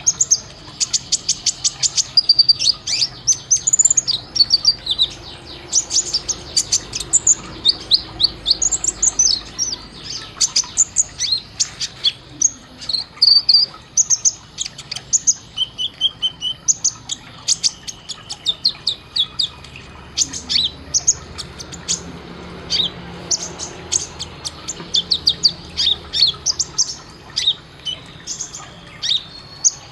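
Kolibri ninja (konin), a sunbird, singing a fast, sharp song of rapid high chirps and short trills in quick bursts with only brief gaps. It is the rapid-fire 'tembakan' fill used as a masteran for training songbirds.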